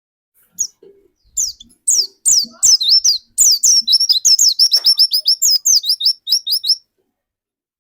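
A pleci dakun white-eye singing a fast, loud string of high, downward-slurred notes, about six a second, which breaks off suddenly near the end.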